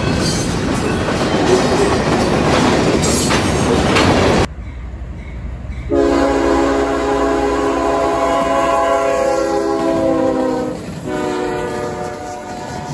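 Freight cars rolling past with clattering wheels on the rails. About four and a half seconds in it breaks off abruptly, and a diesel locomotive's horn sounds a long blast of several notes at once, then a second blast as the locomotive passes.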